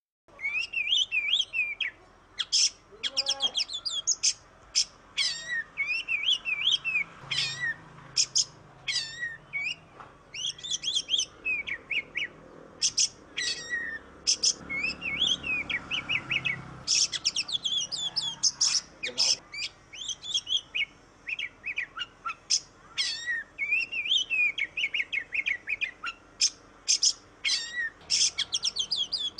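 Oriental magpie-robin (kacer) singing a fast, varied song of clear whistles and harsh chattering notes in quick phrases with short gaps, starting abruptly just after the beginning.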